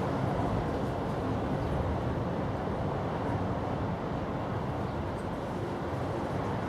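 Steady low rumbling background noise, unchanging throughout.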